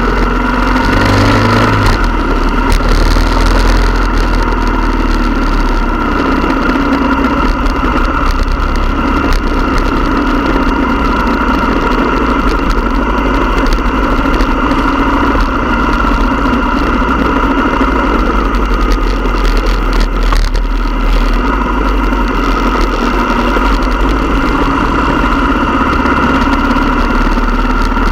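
Motorcycle engines running steadily, a loud continuous drone that holds the same pitch.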